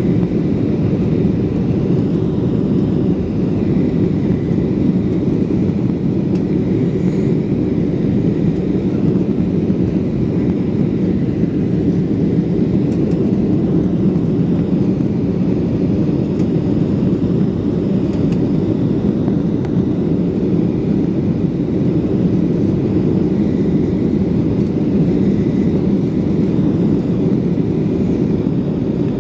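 Steady engine and airflow noise of a Gol Boeing 737 airliner heard from inside the passenger cabin, a deep even rumble with no change in pitch or level.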